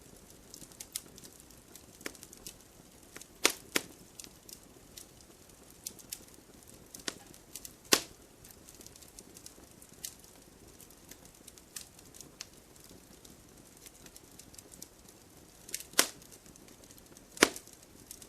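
Campfire crackling: burning wood giving irregular sharp snaps and pops over a soft low hiss, with a handful of louder pops among the small crackles.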